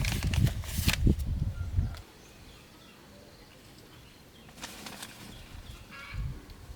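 Rustling and low bumping handling noise for about two seconds, then it drops away to quiet with a few faint rustles near the end.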